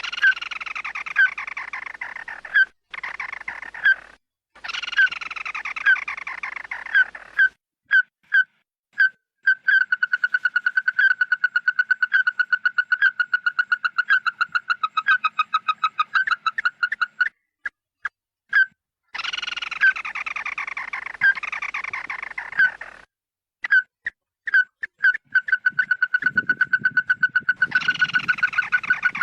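Loud repeated calls of the bird used as a lure: stretches of a harsh, falling call with many overtones alternate with long fast runs of sharp, evenly repeated notes, about four a second. A brief low rumble joins in near the end.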